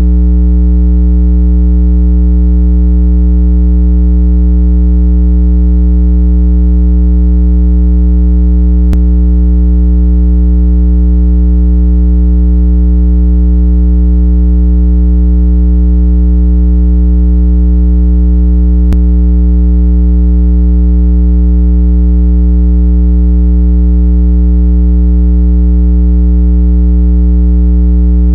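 Continuous loud, low electronic hum: a steady water-eject tone with buzzy overtones, meant to vibrate water out of earbud and phone speakers. It holds one pitch throughout, with a faint click about every ten seconds.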